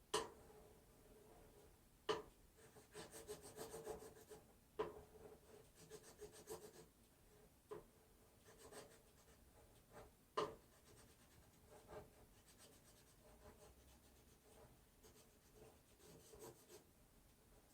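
Faint rubbing and scratching of contact paper being burnished down over a vinyl decal on a metal sign, pressing the vinyl to make it stick, broken by a few sharp knocks.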